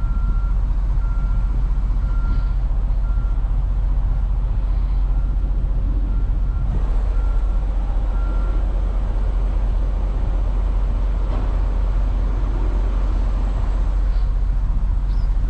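Diesel truck engine idling with a steady low rumble, while a machine's warning beeper sounds a repeating high beep, about one or two a second, that stops about eight seconds in.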